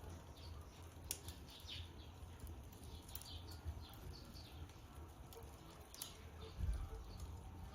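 Campfire crackling: burning wood giving irregular small snaps and pops over a low steady rumble, with one louder low thud near the end.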